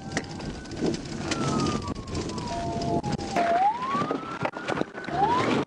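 Police car siren wailing: one slow fall in pitch, then two rises, over road and engine noise.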